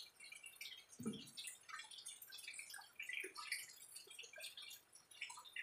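Close-up chewing of crisp unripe mango slices: many small, irregular wet crunches and mouth clicks, with one soft low thump about a second in.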